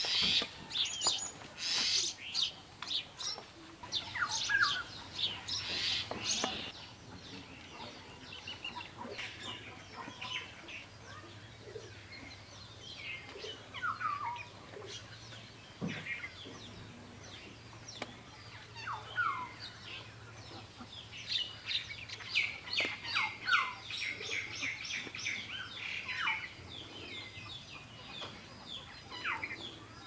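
Small birds chirping and calling, with quick high chirps and a few short falling whistled notes, busiest near the start and again in the last third.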